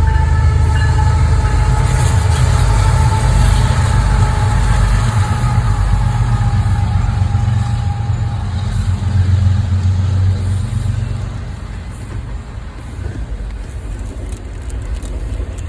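Passing train, close by: a heavy low rumble with a steady whine above it, both easing off about ten seconds in.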